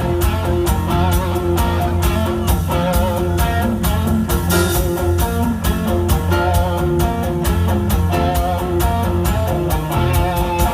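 Rock band playing an instrumental passage between sung lines: guitar over a steady drum beat.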